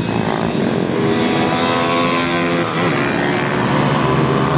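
190 cc pitbike engine running under way, its pitch mostly steady with a brief dip about two and a half seconds in.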